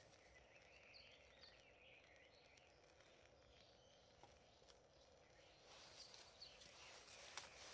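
Near silence: faint outdoor ambience with a few faint, short high chirps, and a couple of light clicks near the end.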